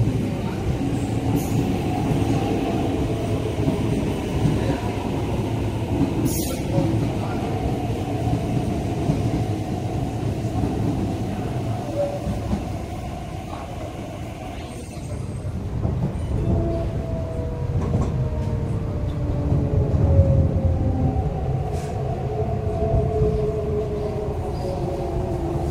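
MTR East Rail Line electric train running along the platform, with a continuous rumble of wheels on track. In the second half it is heard from inside the car, where a motor whine shifts in pitch as the train moves. A brief sharp click comes about six seconds in.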